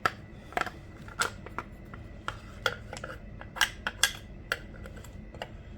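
Irregular sharp clicks and clacks of tools and hard saw parts being handled and knocked together while working on a Stihl MS 462 C chainsaw.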